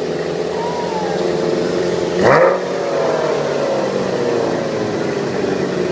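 Car engine running steadily, blipped once about two seconds in, its revs then sinking slowly back.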